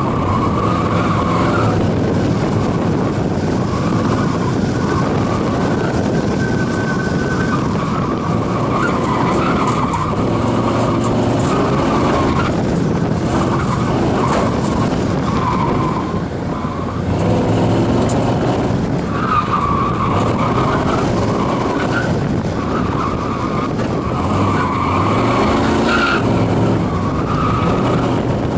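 1993 Ford SVT Lightning pickup's 5.8-litre V8 running hard through a high-speed run, loud throughout, its pitch climbing and dropping several times with heavy road and wind noise underneath.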